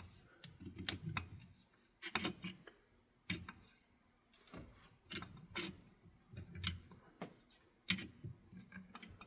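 Metal parts of a ceiling fan motor housing clicking and knocking irregularly as the tight housing halves are worked apart by hand, over soft handling rubs.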